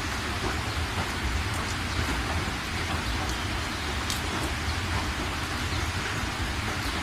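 Steady rainfall, an even hiss with a low rumble underneath and a few scattered, sharper ticks of single drops striking close by.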